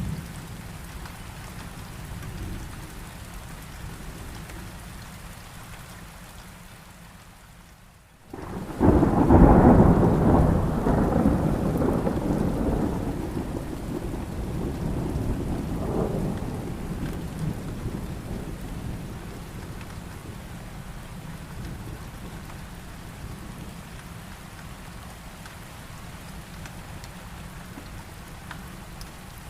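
Steady heavy rain with a low rumble of thunder, broken about eight seconds in by a sudden loud thunderclap that rumbles and slowly fades over the next ten seconds, with a second, smaller crack partway through.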